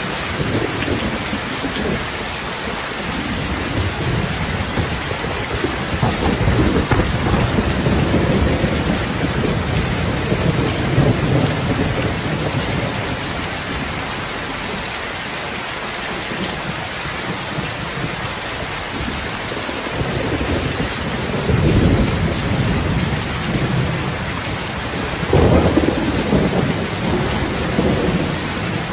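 Heavy rain falling steadily, with low rolls of thunder swelling up several times: a long one about a third of the way in and two shorter ones near the end.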